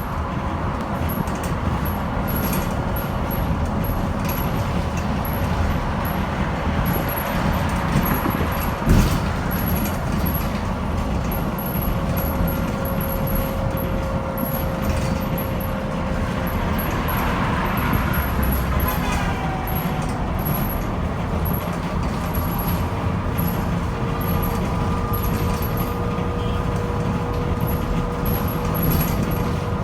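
BYD K9A battery-electric bus on the move, heard from inside: a steady rumble of road noise under the thin whine of its electric drive, whose pitch glides about two-thirds of the way through. A single sharp knock comes about nine seconds in.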